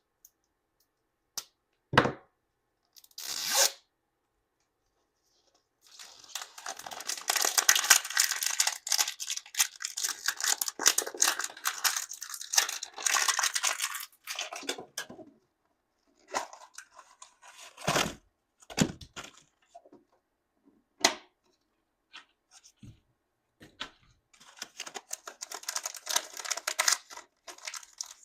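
Thin plastic wrapping on Mini Brands miniature toys being torn open and crinkled by hand, in two long spells, with a few sharp knocks in between as small plastic pieces are handled.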